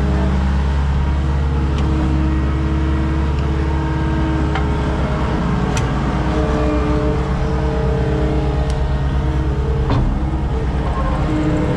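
Skid steer engine running steadily while working, with a few sharp metallic clanks, the loudest about ten seconds in.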